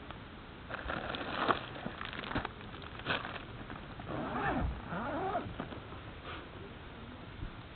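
Campfire crackling with sharp pops. About four seconds in, a squealing sound slides down and then back up in pitch.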